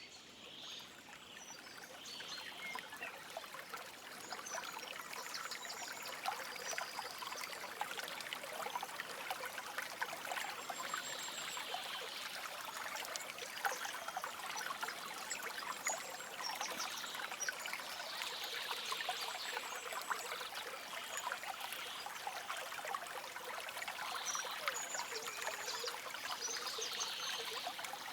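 A small stream trickling and babbling over stones, a steady rush full of tiny splashes that grows louder over the first few seconds. Short, high bird chirps come in now and then above the water.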